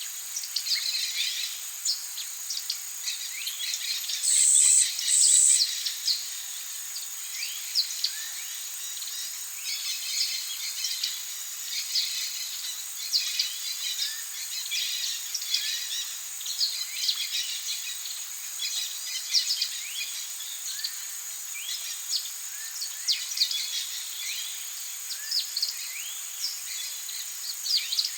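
Tropical rainforest ambience: many birds chirping and calling over a steady high-pitched insect drone. About four and a half seconds in come two short, loud, high buzzes close together, the loudest sounds here.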